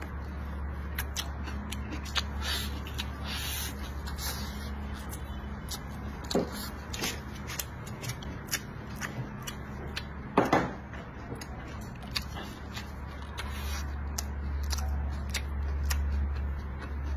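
Close-miked eating sounds: a person chewing a mouthful of rice, pork and tofu, with wet mouth clicks and smacks and chopsticks working at the bowl, the sharpest click about ten seconds in. A steady low hum runs underneath.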